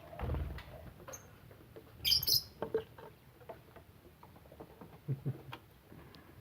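Lovebirds chirping, with one sharp, shrill call about two seconds in, among scattered light taps and clicks.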